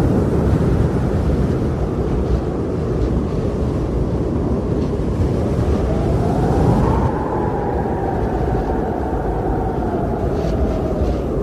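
Winter wind blowing steadily in a low rush, with a whistling tone that rises about halfway through and then slowly falls away.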